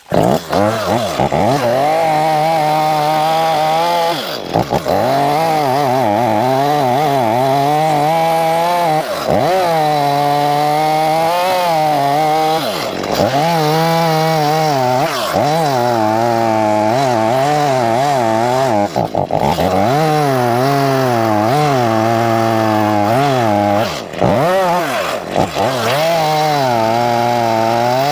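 Stihl two-stroke chainsaw running at high revs and cutting a ring around a tree trunk to girdle it, its pitch wavering and sagging under load. The revs drop briefly and climb back several times, about every four to six seconds.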